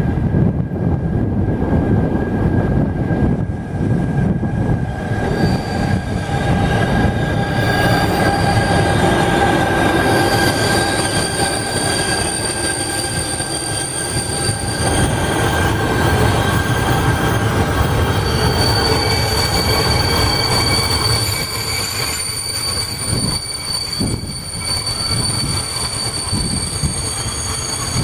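Train running past at close range: a steady low rolling rumble with high, thin wheel-squeal tones that come and go, strongest through the middle and later part.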